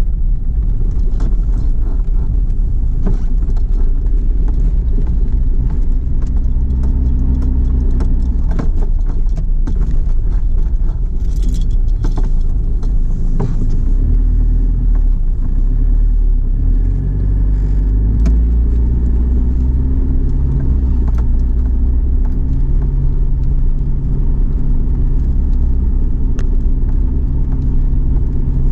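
Car driving at speed, heard from inside the cabin: a steady low road and engine rumble with small rattles and clicks, the engine note shifting about 17 seconds in.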